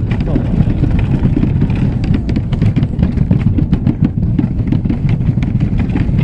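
Running noise of a moving train heard from on board: a steady low rumble with many small knocks and rattles.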